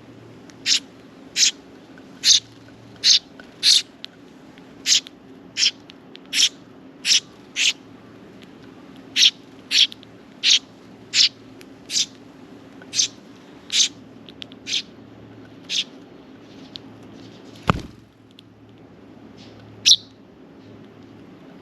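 A sparrow chirping over and over, single short sharp chirps about one or two a second, which stop, with one last chirp near the end. A short downward-sweeping thud comes a couple of seconds after the chirping stops, over a steady low hum.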